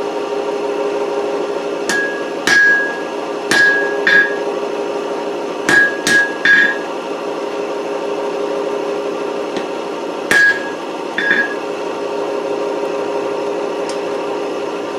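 A heavy 3-pound rounding hammer strikes hot steel over an anvil horn, about nine blows in short groups of two or three with pauses between, each blow followed by a brief metallic ring. A steady hum runs underneath.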